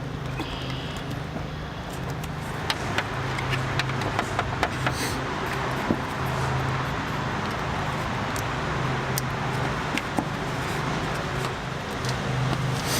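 Scattered light clicks and taps of hand work on motorcycle parts, thickest a few seconds in, over a steady low hum and background noise.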